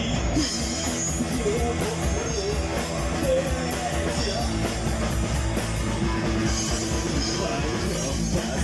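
Rock music without vocals: drum kit and guitars playing an instrumental passage of a song, with evenly spaced cymbal strokes keeping the beat.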